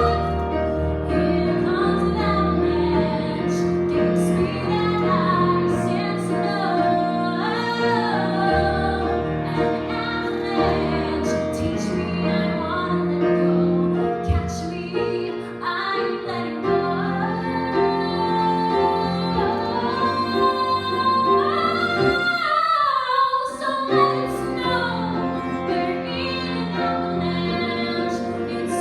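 A woman singing a music-theatre song with piano accompaniment, her melody climbing to a long held high note about three-quarters of the way through, where the piano briefly drops out.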